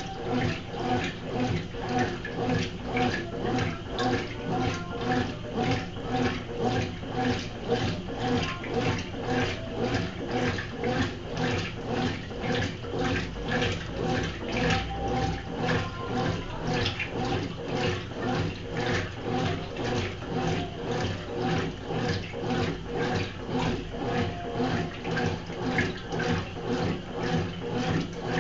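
Consul top-loading washing machine agitating a load of clothes in water during the wash cycle: rhythmic sloshing that swells and fades about one and a half times a second, over a steady motor hum.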